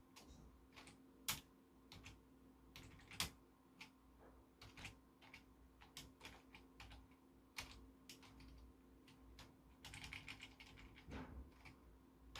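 Computer keyboard being typed on: faint, irregular key clicks, with two louder clacks in the first few seconds and a quick run of keystrokes near the end, over a faint steady hum.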